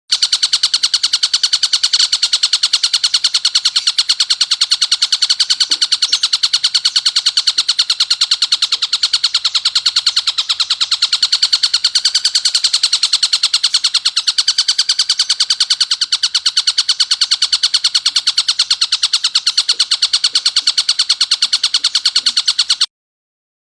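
Tengkek buto kingfisher calling in a fast, harsh, rattling trill that runs on without a break and cuts off suddenly near the end.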